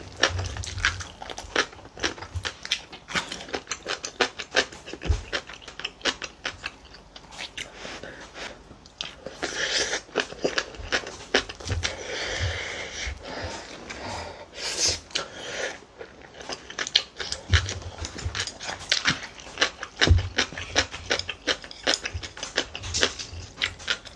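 Close-up eating sounds: wet chewing and lip smacking of rice and stew, with many short, sharp clicks and a few longer wet bursts.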